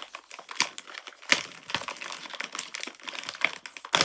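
Plastic packaging crinkling and crackling in irregular bursts as it is handled, with a few sharper clicks.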